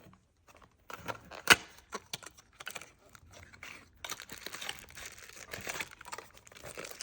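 Packaging of an espresso machine's cleaning kit being handled and opened: scattered clicks and knocks with one sharp click about a second and a half in, then crinkling and rustling from about four seconds in.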